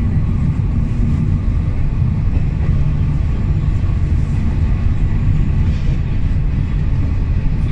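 Matterhorn Gotthard Bahn passenger train running along the track, heard from inside the carriage as a steady low rumble.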